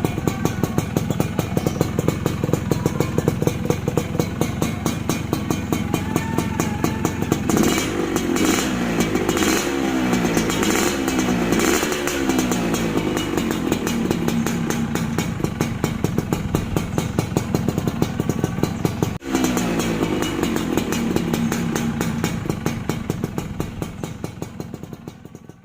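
Yamaha F1ZR two-stroke motorcycle engine running through an MDN Racing Performance exhaust, idling with an even popping beat. A series of throttle blips revs it up and down from about 7 to 13 seconds in, and it is revved once more after a short break around 19 seconds. The sound fades out at the end.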